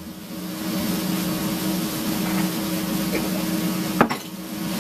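A steady low mechanical hum, like a running kitchen appliance or fan, with a single sharp click about four seconds in.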